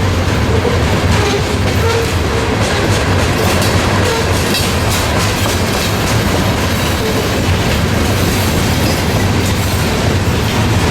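A train rolling past close by: a steady heavy rumble, with the wheels clicking over the rail joints.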